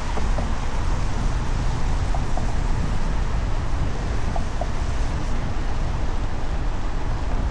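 Steady wind rushing over the microphone of a cyclist riding along, with tyre hiss from a wet road underneath.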